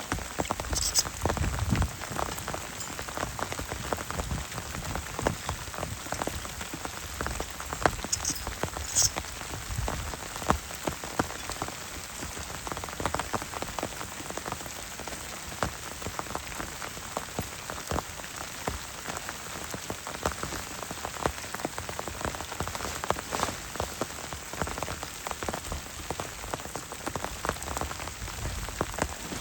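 Heavy rain falling steadily, with many individual drops striking close by as dense sharp ticks over a constant hiss.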